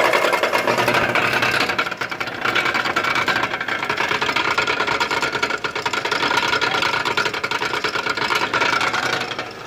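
A car's engine and front driveline running, heard from under the car beside the front drive axle. It is a loud, steady mechanical noise.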